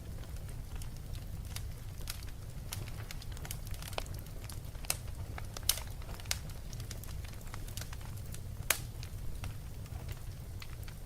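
Wood fire crackling: irregular pops and snaps over a steady low rumble, with a couple of louder snaps midway.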